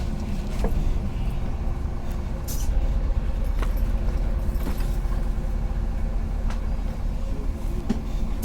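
Karsan Avancity+ articulated city bus with its engine running in a steady low rumble. Scattered sharp clicks and rattles sound over it. The engine gets louder about three seconds in, as if pulling harder.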